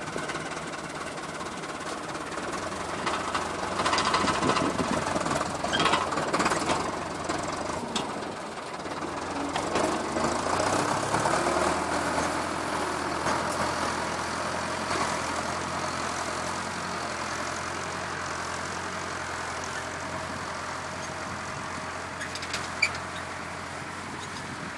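Tractor engine running, uneven and louder for the first several seconds with a rise in engine speed around the middle, then settling to a steady run. A single sharp click near the end.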